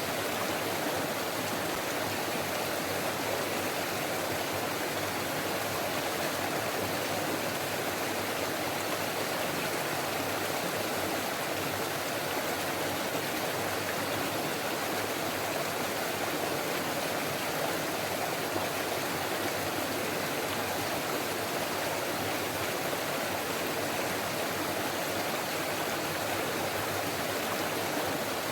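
Stream water running, a steady even rush and babble with no breaks or changes.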